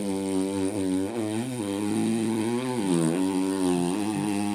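Vehicle engine running while driving, a steady drone whose pitch wavers up and down.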